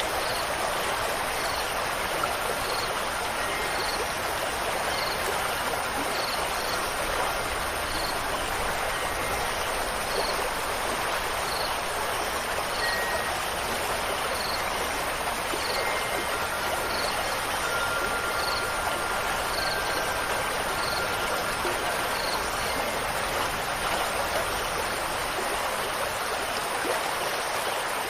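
Steady rushing of stream water, with a faint high chirp repeating about once a second.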